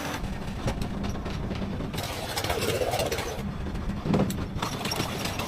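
Mariner 30 hp twin-cylinder two-stroke outboard motor running steadily at idle, with light ticking. It is now firing on both cylinders, a shorted spark plug having been replaced.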